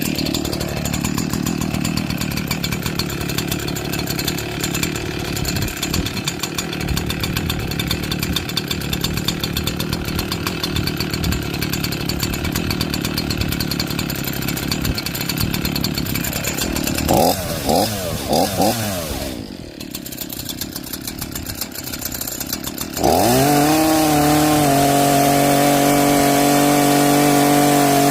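Echo CS-4910 two-stroke chainsaw running. For most of the first two-thirds it makes a rough, noisy sound, then it gives three quick revs and drops back briefly. About four-fifths of the way through it is brought up to a steady, high-pitched full-throttle run.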